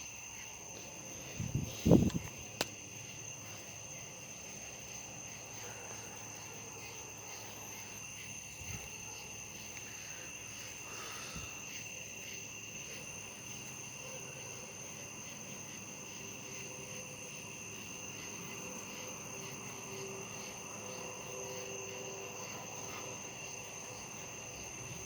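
Steady high-pitched chirring of night insects, with a few loud low knocks or thumps about two seconds in. A faint low hum joins about halfway through.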